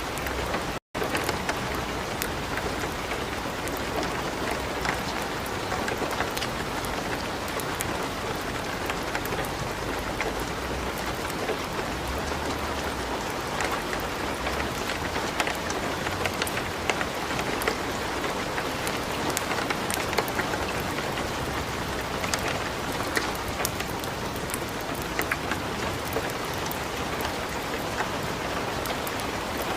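Steady light rain mixed with the crackle and pop of burning wood in a fireplace, many small sharp clicks over an even hiss. The sound cuts out completely for an instant about a second in.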